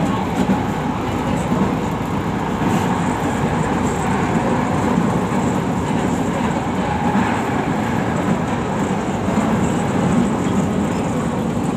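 Light-rail train of Manila's LRT Line 1 running at speed, heard from inside the car: a steady rumble of wheels on rail and car noise.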